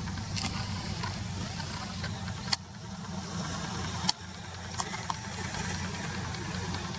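A steady low hum, with two sharp clicks about a second and a half apart near the middle and a couple of fainter ticks after them.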